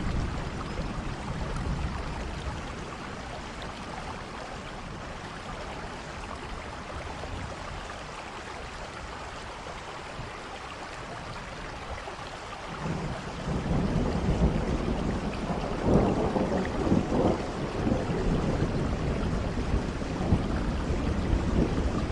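Steady rainfall hiss, joined about halfway through by a low rolling rumble of thunder that swells a few seconds later and keeps rolling.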